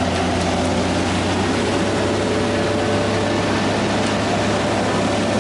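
Heavy construction machine's diesel engine running steadily: a constant low hum over a dense, noisy rumble.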